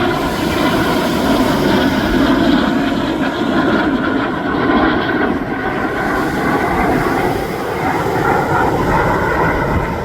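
US Navy F-35C's single F135 turbofan engine, a loud, continuous jet roar with a faint whining tone in it.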